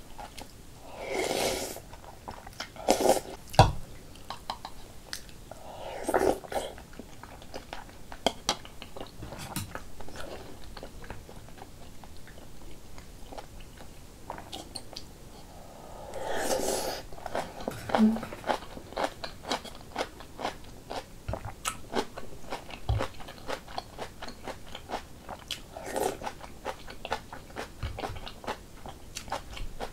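Close-miked eating of rice cake soup and sour kimchi: steady chewing with many small wet mouth clicks, broken about five times by louder mouthfuls lasting about a second.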